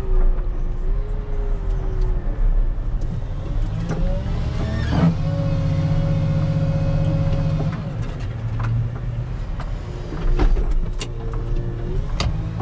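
Rubber-tire wheel loader's diesel engine running, heard from inside the cab. Its pitch rises about four seconds in, holds steady for a few seconds, then drops back, with a few clicks near the end.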